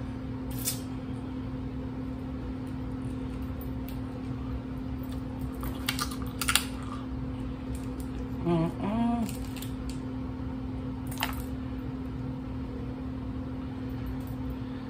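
Cooked shellfish shells being cracked and peeled by hand, heard as a few scattered crisp clicks and crackles. There is a brief hummed vocal sound about halfway through, over a steady low hum.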